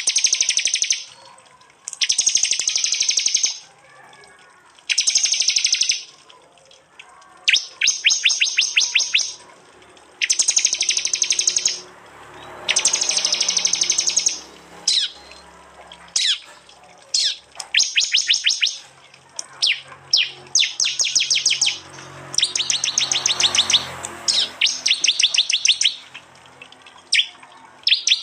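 Prinia (prenjak) song: loud, repeated bursts of rapid, sharp high notes, each about a second long, with short pauses and a few single short chips between them.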